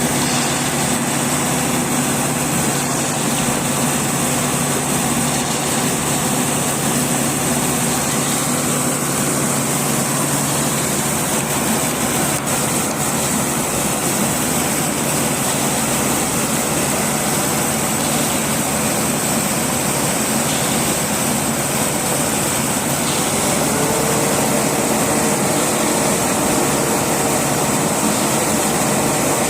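A machine engine running steadily and loudly, with a steady low hum. A second, higher steady tone joins near the end.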